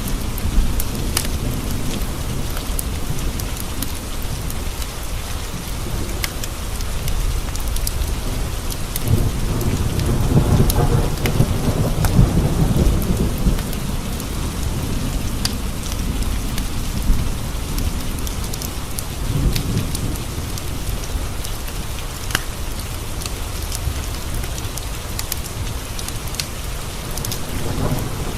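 Steady rain with a low rumble of thunder that swells about nine seconds in and fades a few seconds later, and a fainter rumble near twenty seconds. Scattered sharp ticks sound throughout.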